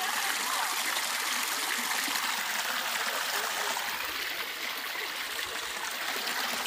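Waterfall and creek water rushing in a steady, even hiss.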